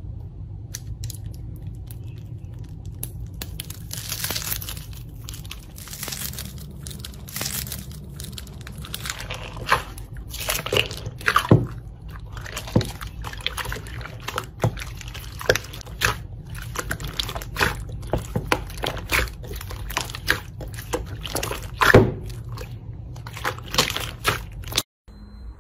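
Slime being squished and popped, giving many sharp crackling pops at irregular intervals, thicker in the second half, over a steady low hum.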